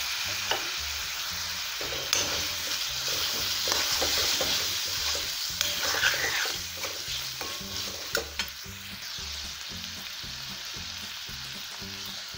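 Boiled lablab bean seeds frying and sizzling in onion-tomato masala in a steel kadai, stirred with a steel spoon that clinks and scrapes against the pan. The sizzle settles a little quieter about two-thirds of the way through.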